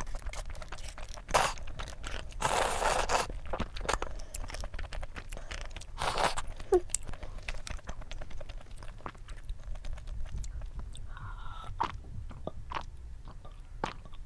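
A person chewing a mouthful of Buldak spicy stir-fried instant noodles close to the microphone: a run of small clicks and crackles of eating sounds, with a longer noisy stretch about three seconds in.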